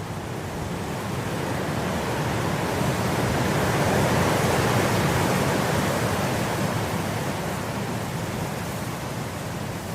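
Wind blowing through grass: a steady rushing noise that swells into a gust about halfway through and eases off again.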